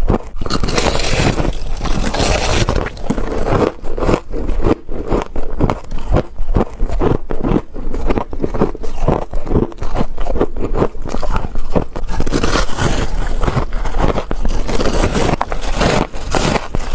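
Teeth biting and crunching through humidifier frost, a dense run of quick crisp crunches one after another.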